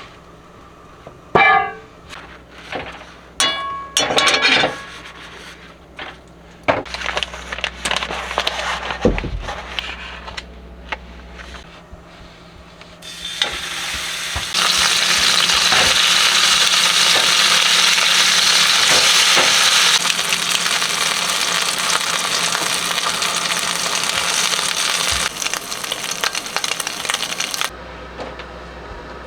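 Kitchen work: dishes and utensils clinking and scraping for several seconds, then a loud, steady hiss like food sizzling that lasts about fifteen seconds and cuts off near the end.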